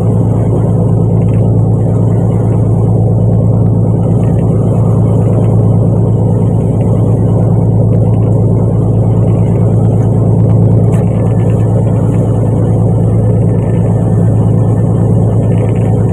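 Fishing boat's engine running steadily: a loud, constant low drone with a steady hum.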